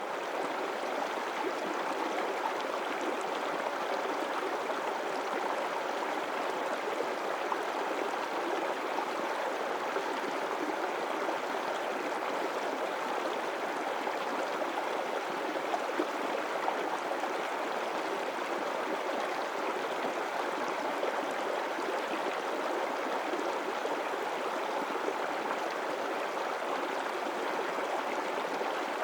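River water rushing steadily over rocks, a constant even noise without breaks.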